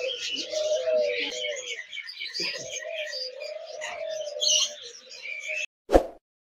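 Many caged birds chirping together, over a lower, wavering call. The sound cuts off abruptly near the end, followed by a single sharp thump.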